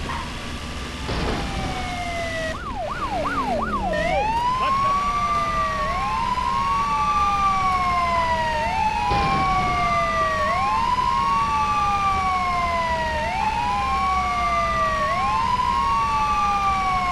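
Police car siren that switches from a short fast yelp to a slow wail about four seconds in; each wail cycle rises quickly and falls slowly, repeating about every two and a half seconds, over a steady low vehicle rumble.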